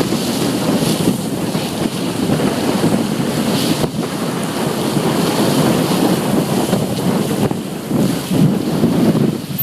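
Wind buffeting the microphone over the wash of water, aboard a scow schooner under sail.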